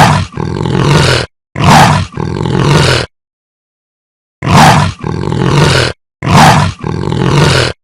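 Leopard roaring: four long calls in two pairs, each call about a second and a half, with a gap of over a second between the pairs.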